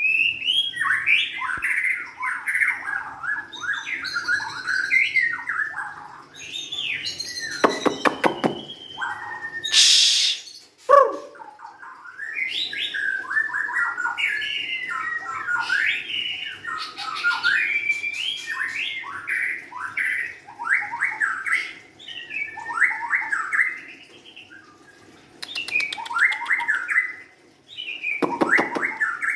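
White-rumped shama, a young wild-caught bird, singing a long, varied song of quick whistled phrases, broken by a few loud, harsh noisy notes.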